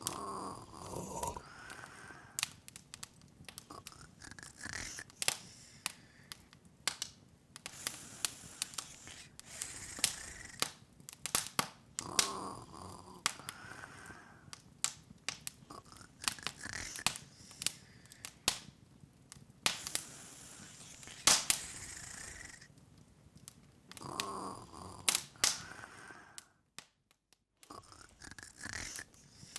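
Wood fire crackling in an open fireplace, with frequent irregular sharp pops over a soft hiss. A soft breathy, snore-like sound comes back about every twelve seconds. The sound cuts out for about a second near the end.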